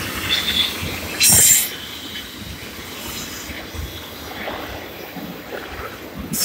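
Double-stack intermodal freight train rolling past, its steel wheels clattering and grinding on the rails. A brief loud hiss cuts in about a second in.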